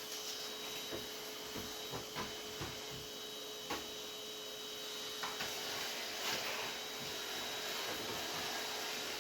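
Vacuum cleaner running with a steady whine, with light knocks and clicks in the first few seconds; its rushing air noise grows a little louder about five seconds in.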